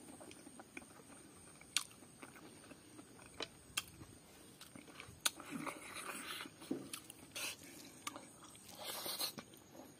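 Close-miked chewing of a mouthful of rice and pork curry, with irregular sharp mouth clicks and smacks.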